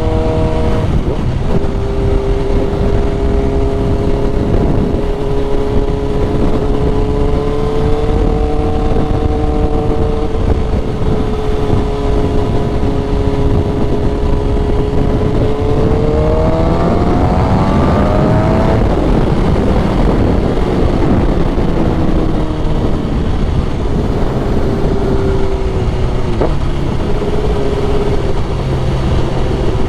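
Sport motorcycle engine running at a steady cruise under heavy wind rumble. About sixteen seconds in it revs up in a quick rising whine, then settles back to a lower steady note.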